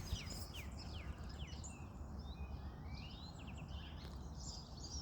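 Small birds chirping and twittering in quick short notes, over a steady low background rumble.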